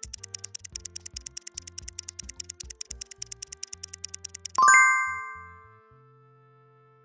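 Fast, even clock-style ticking of a countdown-timer sound effect, about eight ticks a second, over simple background music. About four and a half seconds in the ticking stops and a bright bell chime rings out and fades, signalling that time is up.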